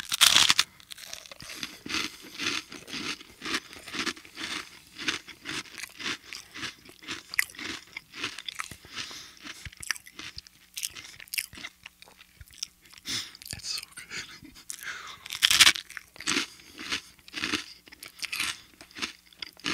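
Crunchy bite into crisp toasted bread, close to the microphone, followed by steady crunchy chewing. A second loud crunching bite comes about three-quarters of the way through.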